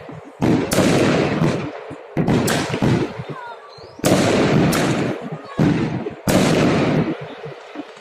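Festive fireworks salute shells bursting in the sky, about six heavy booms a second or so apart, each a sharp crack followed by a long rolling rumble.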